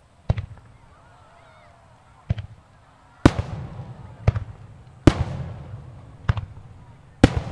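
Fireworks shells bursting: about seven sharp bangs roughly a second apart, each with an echoing tail, growing louder from about three seconds in.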